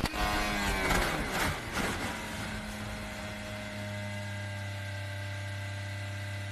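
Racing car engines: in the first two seconds engine notes sweep past with pitch falling, then a steady low engine drone holds for the rest.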